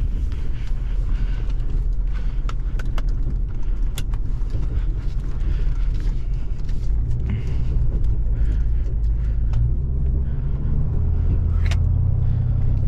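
Truck engine and road rumble while driving off towing a loaded trailer, a steady low drone with a few sharp clicks.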